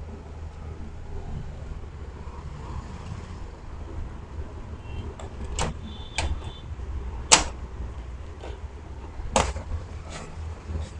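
Plastic clicks and knocks from a photocopier's covers and parts being handled and closed: four sharp knocks in the second half, the loudest about seven seconds in, over a low steady hum.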